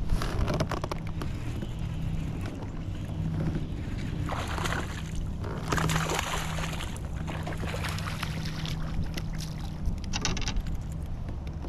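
Water sloshing and splashing against a fishing kayak, over a steady low hum. The splashing is busiest about halfway through and again near the end.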